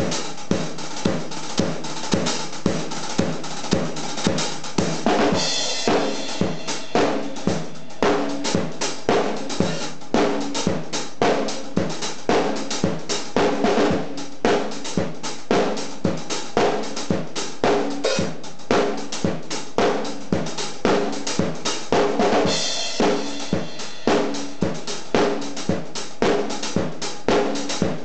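Drum kit played in a steady rock groove of kick, snare and hi-hat, with crash cymbal hits twice, about five seconds in and again about twenty-two seconds in.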